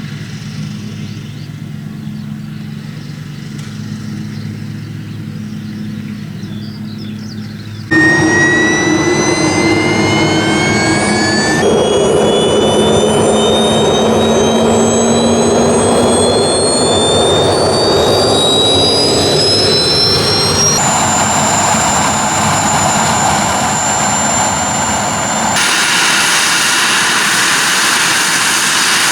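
A steady low engine hum, then about eight seconds in a model jet turbine suddenly comes in loud: an airy rush with a high whine that keeps slowly rising in pitch as the turbine spools up, changing abruptly a few times.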